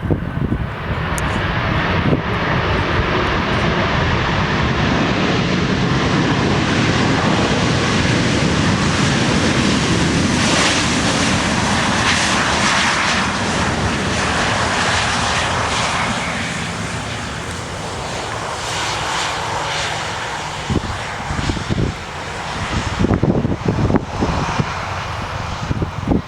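Jet aircraft engines roaring as a plane passes close by. The roar builds over the first couple of seconds, stays loud for most of the stretch, then fades. Gusts of wind hit the microphone near the end.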